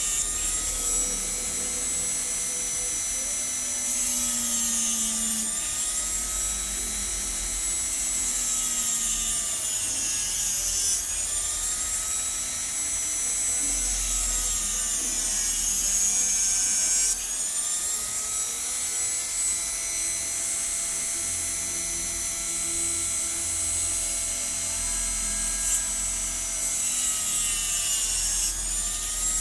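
Hand grinder's small electric motor running at high speed with a steady high whine, grinding the edge of a spectacle lens. Its pitch sags and recovers several times as the lens is pressed against it.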